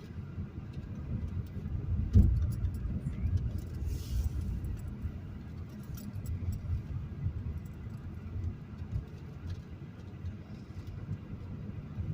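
Car driving along a city street, heard from inside the cabin: a steady low engine and road rumble, with a single thump about two seconds in and light scattered clicks and rattles.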